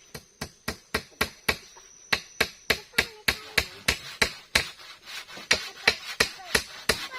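Steady hammering: about twenty sharp, evenly spaced blows, roughly three a second, of a hammer driving nails.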